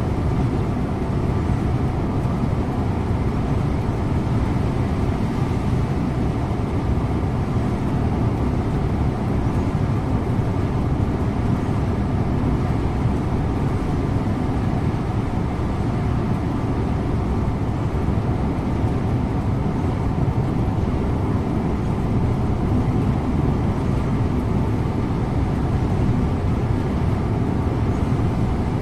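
Scania InterLink bus's engine running steadily with road and tyre noise at a constant speed, heard from inside the cabin at the driver's position.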